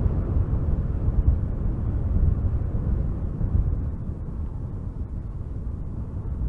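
Strong wind gusting through spruce trees, a deep, steady rush that eases slightly past the middle.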